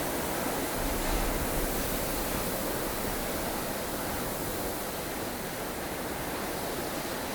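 Strong wind of a blustery snowstorm blowing steadily as an even rushing noise, with a low gust swelling about a second in.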